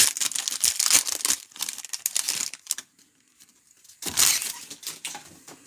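Trading card pack wrappers crinkling and tearing as packs are opened: a dense run of crackling for about two and a half seconds, then a short tearing rip about four seconds in.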